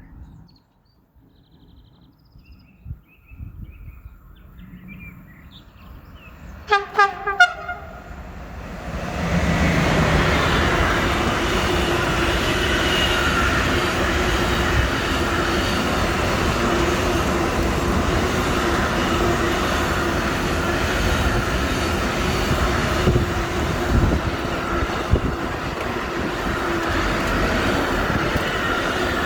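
Siemens Vectron Class 193 electric locomotive sounding a few short horn blasts about seven seconds in. From about nine seconds the train passes close by, a loud steady rumble of wheels on rails with a steady whine running through it.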